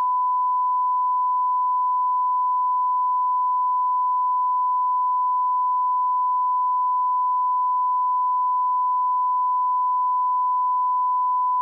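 Steady 1 kHz sine-wave line-up test tone at the −18 dB reference level: one unwavering pitch that cuts off at the very end.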